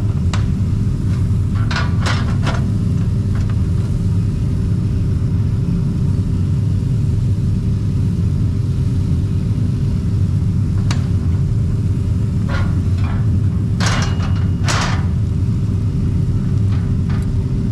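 A machine running steadily, a loud low rumble with a constant hum, with a few scattered sharp clinks or knocks and a cluster of them near the end.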